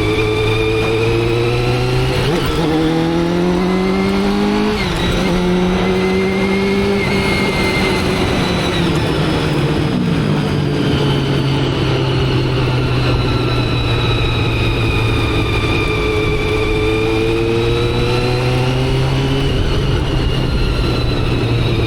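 Motorcycle engine under way: a steady note, then accelerating with rising pitch from about two seconds in, dropping abruptly near five seconds as it shifts up a gear, holding, and easing back to a lower steady note around ten seconds.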